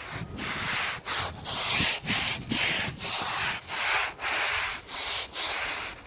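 Stiff broom scrubbing a grave's hard surface in quick back-and-forth strokes, about two a second.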